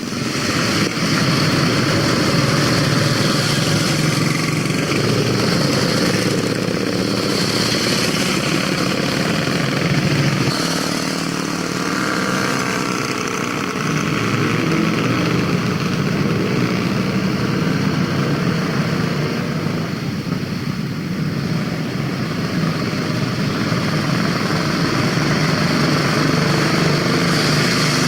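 Vintage motorcycle engines running steadily with a rough, continuous rumble, easing a little about two-thirds of the way through.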